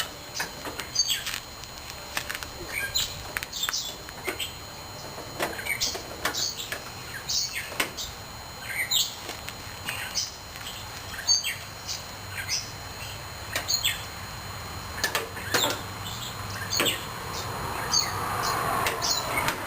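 Short, high chirps of a small bird, repeated roughly once a second, with a few faint clicks in between. A rushing noise swells near the end.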